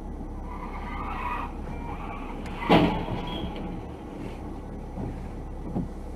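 Car on the road with a steady engine and road hum and a brief hiss about a second in. Just under three seconds in there is a single loud bang, and two smaller knocks follow near the end.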